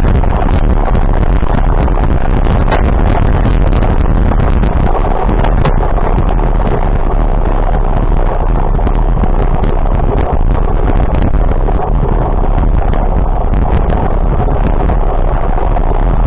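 A vehicle running, with steady, loud engine and road noise.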